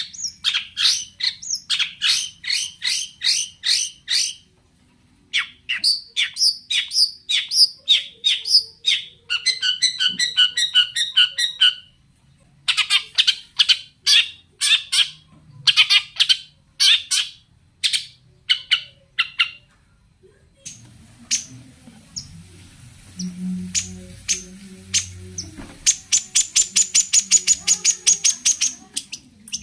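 Long-tailed shrike (cendet) singing: bursts of rapid, harsh, scratchy notes with short pauses, including a fast trill about a third of the way in and a very quick run of notes near the end.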